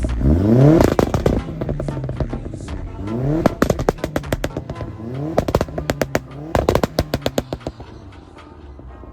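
Škoda Octavia RS 1.8T 20V turbo four-cylinder being blipped about four times, its pitch rising quickly with each rev, and each rev followed by a rapid stutter of sharp pops and crackles. The sound settles to a lower idle near the end.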